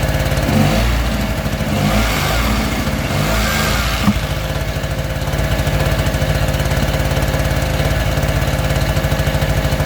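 An engine running steadily at idle, with some knocking and handling noises in the first few seconds and a sharp click about four seconds in.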